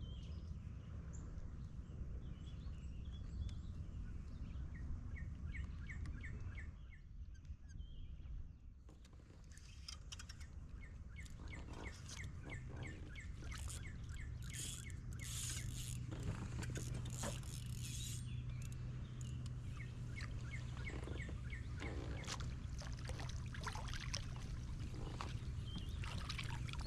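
Open-air lake ambience with a bird's rapid trill of short, evenly spaced chirps, heard three times, over a steady low rumble and scattered small clicks and knocks.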